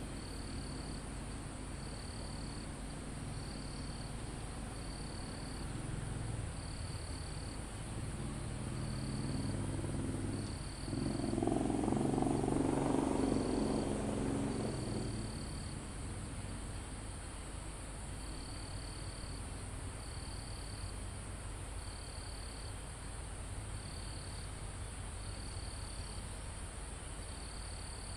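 Forest insects: a steady high-pitched insect drone, with a cricket chirping in short repeated pulses. Near the middle a low rumble swells and fades over several seconds.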